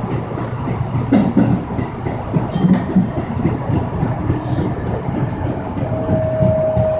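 Subway train running on the line, heard from inside the car: a steady rumble of wheels on rail with a few rail-joint clacks. A steady electric motor whine fades at the start and comes back about six seconds in.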